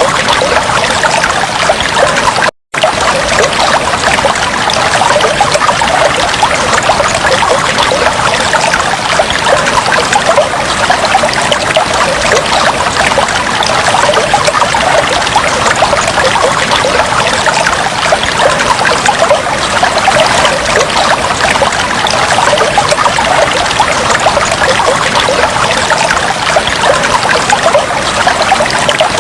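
Aquarium water bubbling and trickling steadily, a dense, even splashing with no rhythm; it cuts out for an instant about two and a half seconds in.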